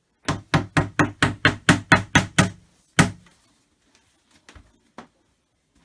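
A mallet knocking a flat-pack cupboard part into its holes: a quick, even run of about ten strikes at roughly four a second, then one more hard strike about three seconds in, and two faint knocks near the end.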